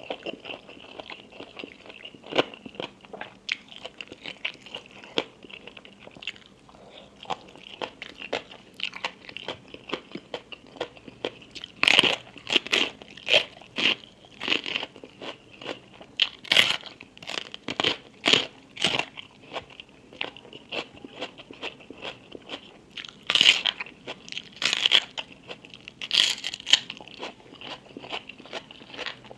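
Close-miked eating sounds: crisp food being bitten and chewed, with repeated sharp crunches and wet chewing in between. The crunching comes in louder bursts about a third of the way in and again near the end.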